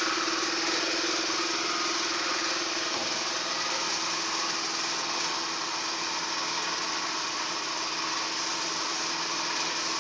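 Paint-spraying equipment running steadily: a constant motor hum under a continuous hiss of air while paint is sprayed.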